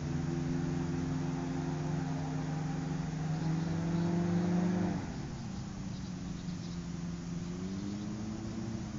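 Microlight's Rotax 512 engine running with its new propeller, holding high revs that creep up slightly. About five seconds in the revs drop sharply to a lower steady note, which picks up a little near the end.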